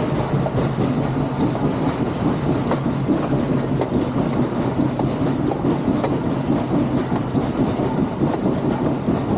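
Western Maryland Scenic Railroad train running by with a steady, continuous rumble.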